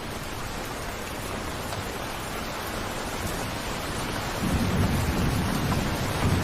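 Steady rain falling, with a low rumble of thunder starting about two-thirds of the way through and growing louder.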